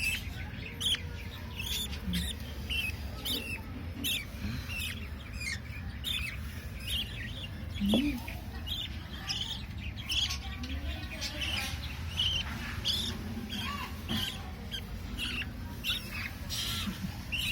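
Baby budgerigar chicks chirping: short, high calls repeating several times a second, with one louder rising call about halfway through.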